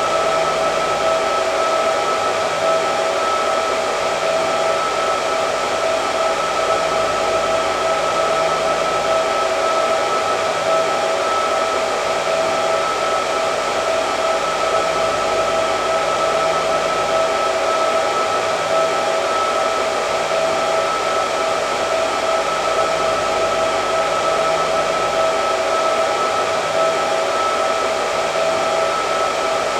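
Hair dryer running continuously: a steady rush of air with a constant whine at two fixed pitches from the motor and fan.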